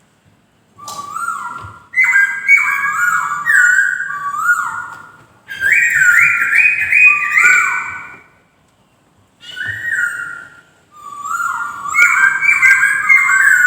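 Poksay (a laughingthrush) singing: clear whistled phrases of quick rising and falling notes, in bursts of a few seconds with short pauses between them.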